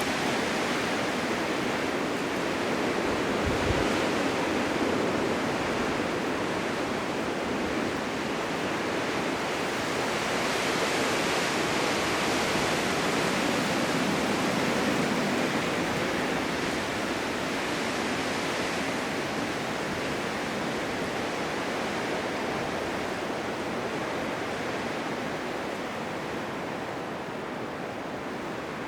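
Blizzard wind: a steady rush of wind that swells in slow gusts and eases a little near the end.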